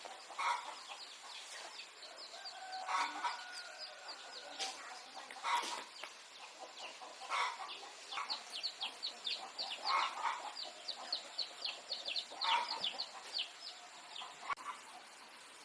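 Baby birds chirping in quick runs of short, high, falling chirps. A chicken clucks every second or two underneath.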